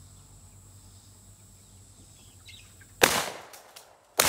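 Two 12-gauge shotgun shots about a second and a quarter apart, the second near the end, with a few faint clicks between them. The first blasts a water-filled can, which throws a clay target up, and the second is fired at the clay in the air.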